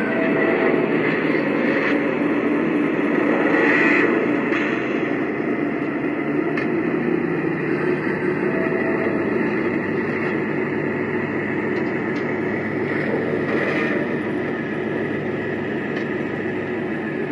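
Lionel Legacy ES44AC model locomotive's onboard sound system playing a diesel prime mover holding at a steady idle-like rumble, with no change in pitch.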